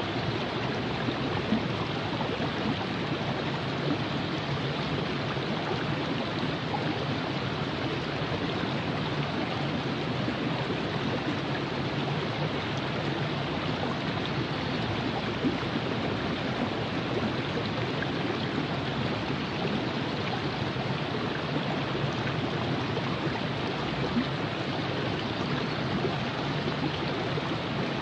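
Virgin River flowing: a steady rush of moving water over rocks.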